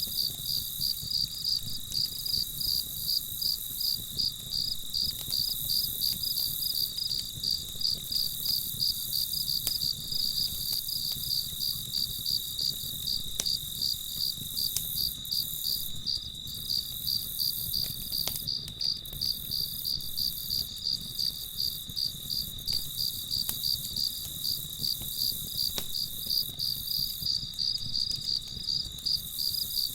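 Crickets chirping in a steady, evenly pulsed high trill, with a few faint crackles from a campfire.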